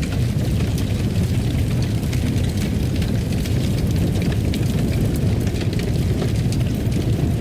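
Fireplace fire burning with a steady low roar and frequent small sharp crackles and pops scattered throughout.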